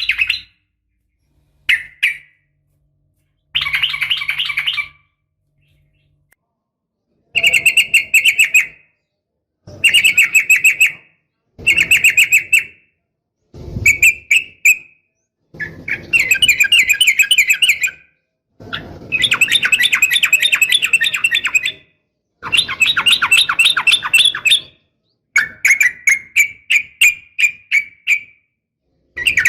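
Sooty-headed bulbul (trucukan) calling in a string of short bursts of rapid, chattering notes, each one to three seconds long, with brief silences between them. The uploader presents these as a female calling a male.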